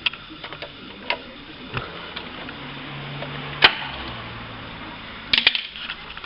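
Scattered clicks and clinks of hand tools working on metal engine parts, with one sharp, louder click about three and a half seconds in and a quick cluster of clicks near the end.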